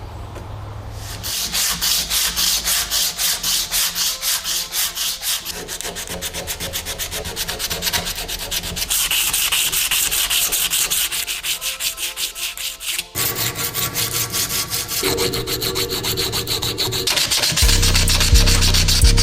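Hand sanding of stapler parts in quick, rhythmic back-and-forth strokes. The strokes pause briefly about two-thirds of the way through, then go on. A low hum joins them near the end.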